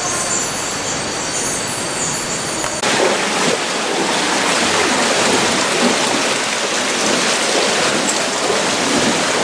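Rushing water, a steady hiss; about three seconds in it changes abruptly to a louder, fuller rush.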